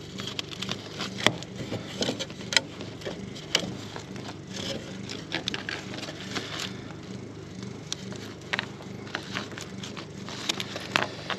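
Scattered clicks, crackles and scrapes of hands working a wooden hive frame, fitting a piece of honeycomb and stretching rubber bands around it.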